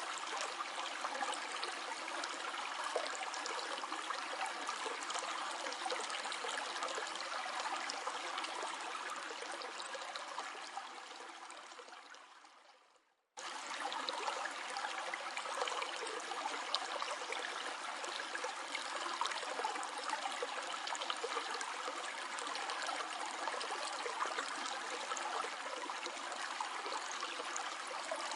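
Flowing stream, a steady rush and trickle of water. About ten seconds in it fades out to brief silence, then cuts back in abruptly a moment later.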